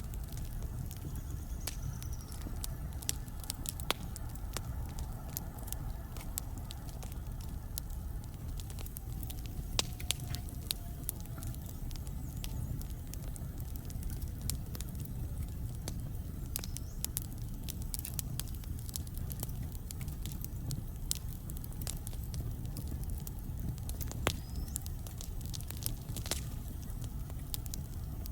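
Logs burning in a wood fireplace: irregular sharp crackles and pops over a steady low rumble of the flames.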